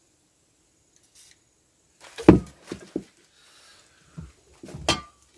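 A string of knocks and clunks from parts and tools being handled during a repair. The first and loudest comes about two seconds in, followed by a few sharper knocks, a brief scrape and two more thumps near the end.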